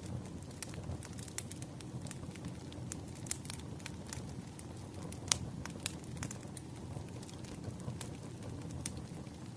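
Campfire burning, with irregular sharp crackles and pops over a low, steady rumble of the flames; one pop about halfway through stands out as the loudest.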